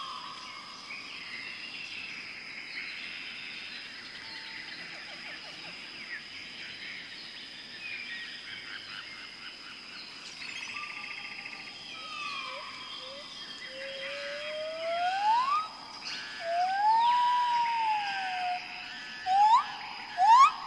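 Garden birdsong: small birds chirping and twittering over a steady high-pitched hum. From about two-thirds of the way in, louder clear whistles take over: rising glides, one long arching note, then a run of quick upward whistles near the end.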